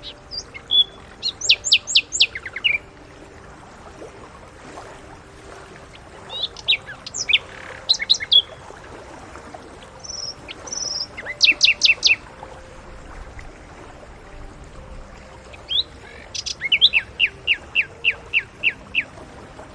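Common nightingale singing: four short, varied phrases of rapid repeated high notes and trills, each two to three seconds long, with pauses of a few seconds between them.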